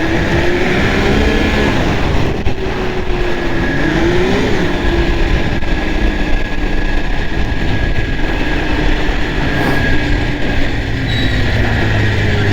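Arctic Cat Thundercat snowmobile engine running under way, its pitch rising and falling as the throttle is worked, with peaks about one and a half and four and a half seconds in. Heavy wind noise on the microphone runs over it.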